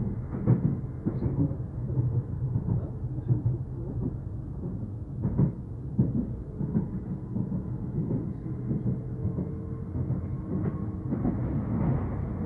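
Docklands Light Railway train running between stations, heard from inside the carriage: a steady low rumble with scattered knocks of the wheels over rail joints, and a faint steady whine in the later part.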